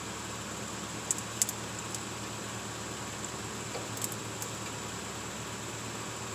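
A few light, sharp clicks and taps of brake caliper parts being handled while grease is worked in: two about a second in and a couple more around four seconds. Under them runs a steady fan-like hiss.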